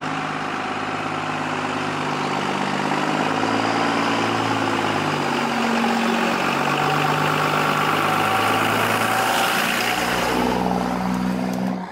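An engine running steadily, its pitch shifting up and down several times as its speed changes.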